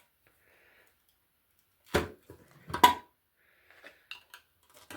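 Two sharp metallic clanks about a second apart, then a few lighter clinks: metal parts and tools being handled while an engine's sump is taken off.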